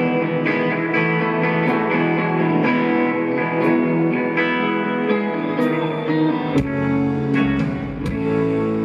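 Live rock band in an instrumental guitar passage: electric guitars ringing out sustained chords, with a deeper bass low end coming in about two-thirds of the way through.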